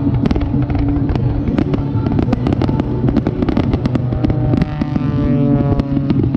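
Fireworks display: a dense run of sharp cracks and pops over a steady low drone, with a tone that falls in pitch during the last couple of seconds.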